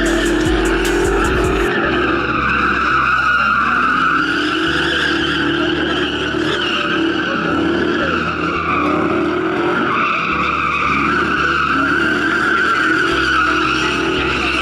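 A vehicle's tires squealing continuously through a long slide or burnout, the pitch wavering up and down, with the engine running hard underneath. A few sharp ticks sound in the first couple of seconds.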